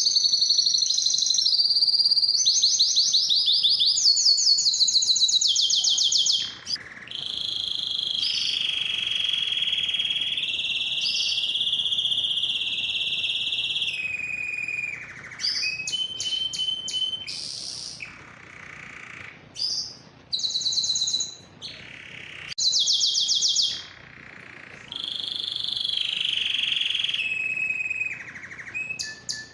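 Male domestic canary singing a long, varied song: rapid trilled rolls alternate with sustained whistled notes and short pauses.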